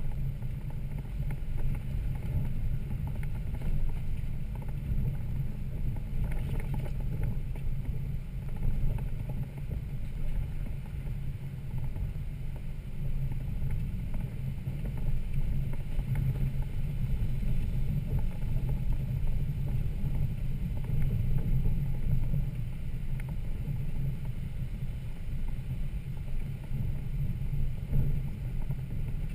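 Toyota Land Cruiser 80 Series inline-six engine running steadily as the truck drives the trail, a low, even rumble.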